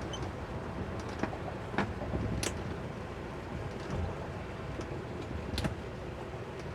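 Twin 200 hp Suzuki outboard motors running steadily at low speed under the load of a tow, with water and wind noise. A few short sharp clicks or knocks stand out over the steady sound.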